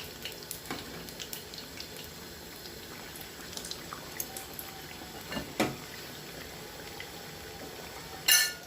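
Mutton chops shallow-frying in oil, a steady sizzle with scattered small pops. A knock about five and a half seconds in and a louder, sharp ringing clink near the end.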